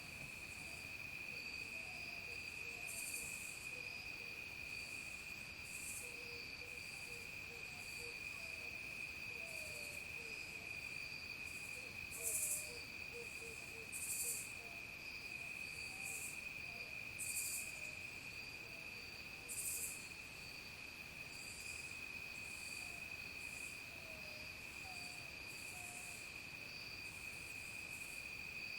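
Dusk insect chorus of crickets: a continuous high, steady trill, with short raspy high-pitched pulses repeating irregularly every second or two over it. Faint, low, short slurred calls sound in the background.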